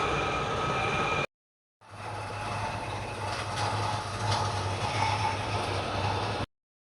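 Steady machine running noise with a low hum and faint whining tones. It cuts off abruptly about a second in, resumes half a second later, and stops suddenly near the end.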